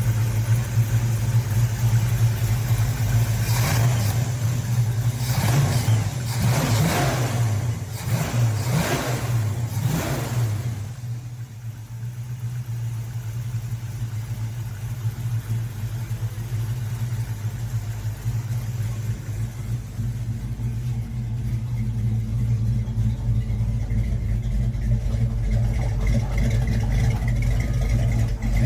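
1937 Chevrolet Master's 383 Chevy stroker V8 running: revved about six times in quick succession during the first ten seconds or so, then settling to a steady idle.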